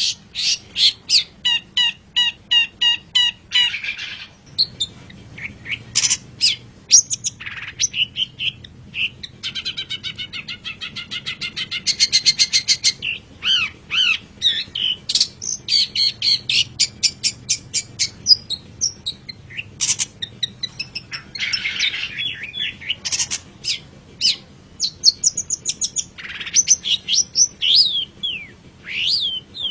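Long-tailed shrike (cendet) singing a fast, varied song of sharp repeated chips, a rapid buzzy trill and short down-slurred whistled notes.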